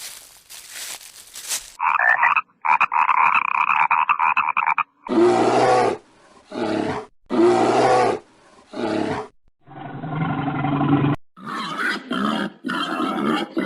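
Animal calls from several short clips cut one after another: a high call, then four loud roars with short pauses between them, then further calls.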